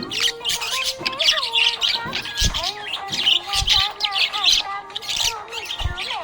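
Budgerigars chirping and warbling continuously in a rapid, busy stream of short chirps, with gliding whistled tones underneath.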